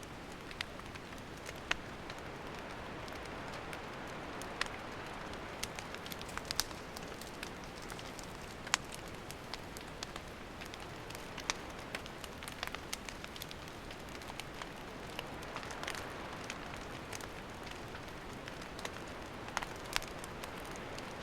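Wood campfire burning: a steady hiss with scattered sharp crackles and pops from the burning wood.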